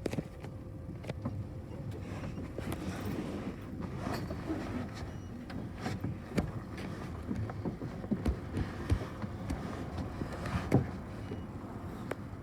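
Bus interior while riding: a steady low rumble of engine and road with a faint steady whine, and frequent small clicks and rattles from the cabin fittings.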